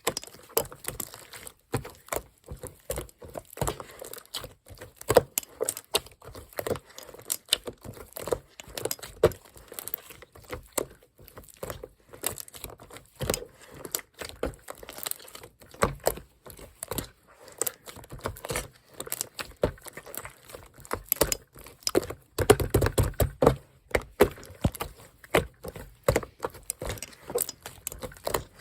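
Hands squishing, poking and folding slime, making quick irregular wet clicks and pops, with a louder, denser run of squelching about three-quarters of the way through.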